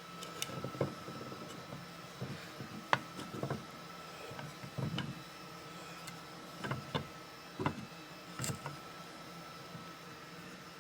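Irregular light knocks and clunks of walnut boards being handled and set down, about nine in all, spread unevenly, over a faint steady high hum.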